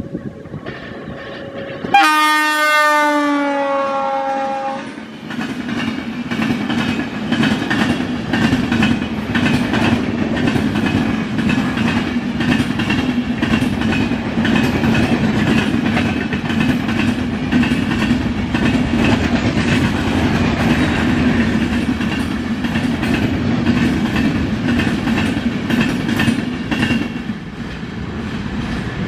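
An electric-locomotive express train sounds its horn as it arrives, the pitch bending down as it passes. The train then rushes by at speed for about twenty seconds with rapid wheel clicks over the rail joints, and the noise falls away near the end.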